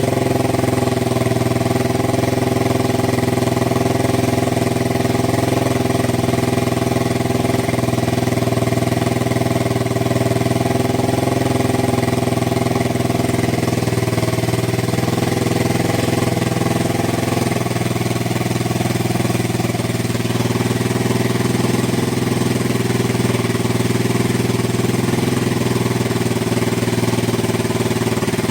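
Yamaha TW200's air-cooled single-cylinder four-stroke engine running steadily at idle through an aftermarket Gatling-style multi-pipe muffler.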